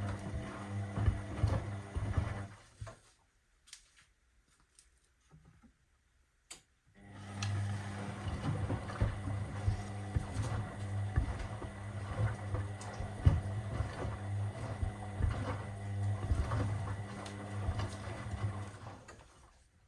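Washing machine running with sneakers in the drum: a steady motor hum with irregular knocks. It cuts out about three seconds in, returns about four seconds later, and fades out near the end.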